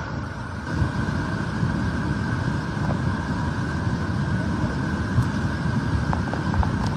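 A steady, loud rush of water in heavy rainfall.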